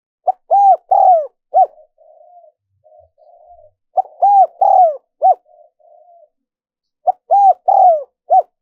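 Spotted dove cooing: three repeated phrases, each of about four arched notes, a short note, two longer ones and a short closing note, with fainter soft notes between the phrases.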